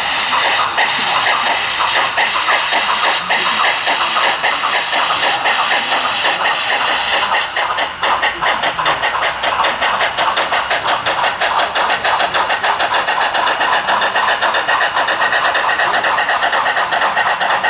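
HO-scale model Union Pacific steam train running, with a fast, even beat that becomes plainer about halfway through.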